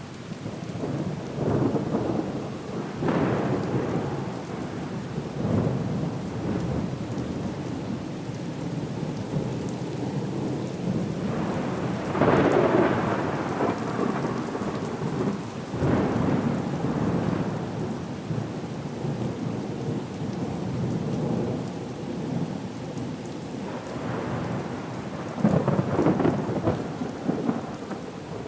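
Steady rain with rumbles of thunder swelling up several times, loudest about twelve seconds in and again near the end.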